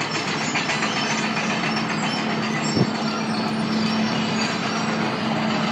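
A tractor running steadily as it crosses a paved street, its engine hum under a continuous rapid clatter and scraping from its running gear tearing up the road surface.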